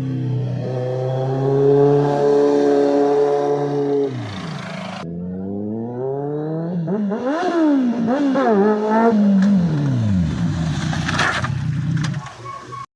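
Sport motorcycle engine running. It is held steady, then drops away. After a cut come several quick throttle blips that rise and fall sharply before the revs die down, with a few crackles near the end.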